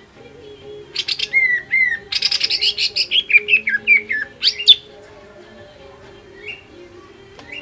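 Cucak ijo (green leafbird) singing: a loud burst of about four seconds of rapid chattering notes and quick falling whistles, ending on a sharp high note. Faint single chirps come before and after it.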